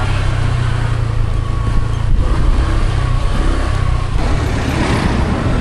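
A motor scooter on the move: wind rushing over the microphone, with the scooter's engine running underneath.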